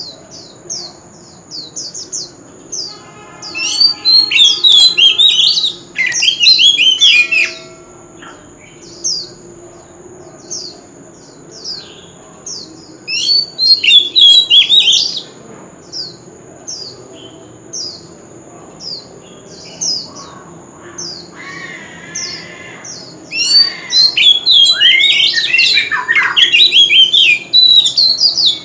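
Oriental magpie-robin singing: short, high, falling notes repeated about twice a second, broken by loud bursts of rich, varied warbling several times, the longest near the end. A steady thin high tone runs underneath.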